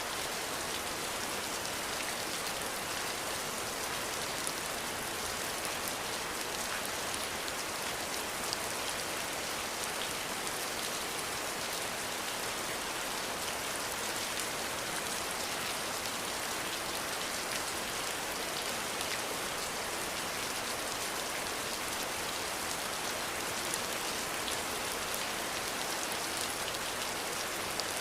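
Steady rain falling, an even hiss with scattered small drop ticks and no change in intensity.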